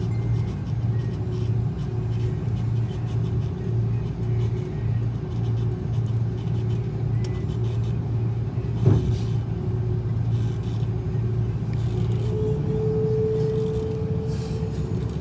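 Airbus A330 cabin noise on the ground after landing: a steady low rumble with a pulsing hum, from the idling engines and cabin air. There is one sharp knock about nine seconds in, and a higher steady tone joins about three seconds before the end.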